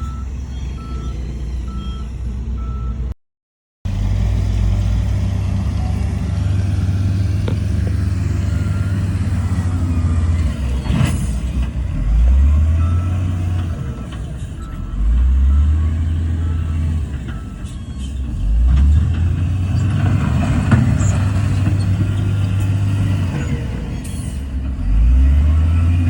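Heavy diesel earthmoving machinery and dump trucks running, with an engine revving up under load four times in the second half. A reversing beeper sounds for the first few seconds, and the sound drops out briefly near the start.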